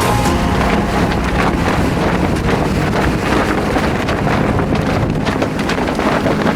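Strong wind buffeting the microphone aboard a sailboat under way, a loud, steady rush with repeated gusts.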